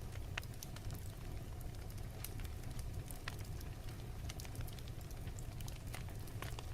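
Fireplace crackling: scattered sharp pops and snaps of burning wood over a steady low rumble.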